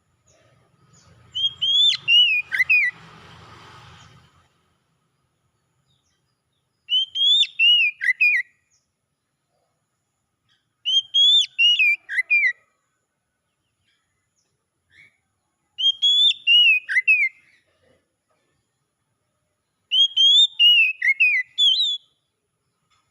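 Oriental magpie-robin (kacer) singing: five short whistled phrases of looping, falling notes, each about a second and a half long, repeated every four to five seconds.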